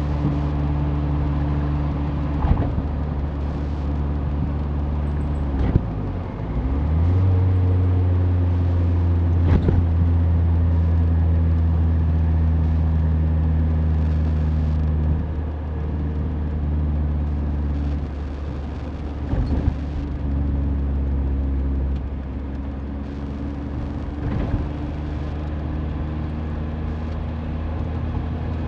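Mazda Roadster's engine running steadily as the car drives along. About six seconds in the engine note dips and changes with a gear change, then runs lower and louder, easing off a few times later on. A few short knocks from the road come through now and then.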